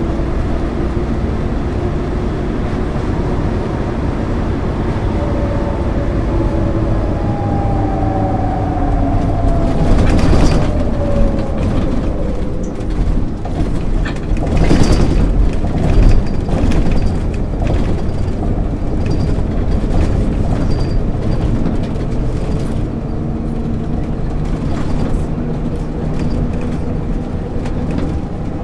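A 1999 MAN ÜL 353 bus on the move, heard from inside: the engine and driveline whine falls slowly in pitch during the first ten seconds. Through the middle, interior fittings rattle and knock, loudest about ten and fifteen seconds in, and then the bus runs on more steadily.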